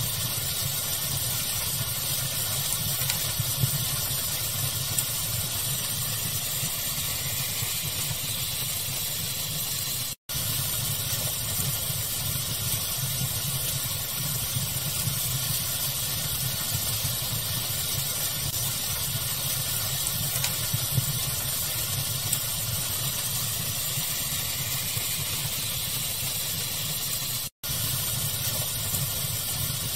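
Steady hiss of a fireplace-fire ambience blended with pink noise, with occasional small crackles. The sound cuts out for an instant twice, about ten seconds in and near the end.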